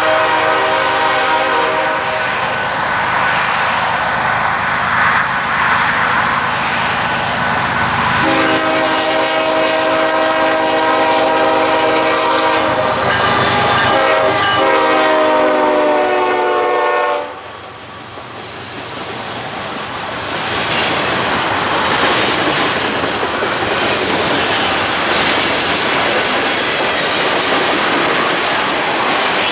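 Train horn sounding a multi-note chord in long blasts, with a short one just before the last long blast, which ends about 17 seconds in. After that the train runs past, its wheels clickety-clacking over the rail joints.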